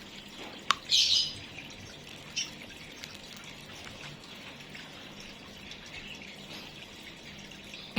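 Small songbirds in an aviary giving short high chirps and calls: a sharp call and a brief burst about a second in, another around two and a half seconds, and only faint ticks the rest of the time.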